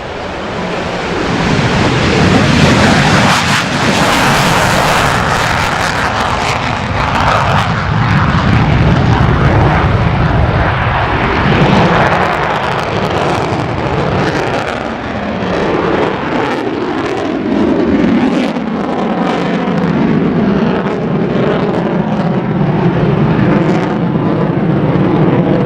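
F-22 Raptor's twin afterburning turbofan jet engines at high power. The loud rushing jet noise builds over the first couple of seconds, then stays loud, swelling and sweeping in pitch as the jet moves past.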